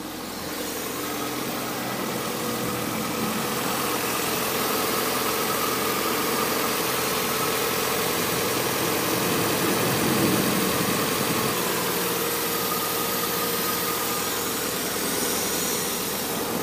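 Mazda MX-5 NB's four-cylinder engine idling steadily just after being started, running on newly fitted and tensioned alternator and power steering belts.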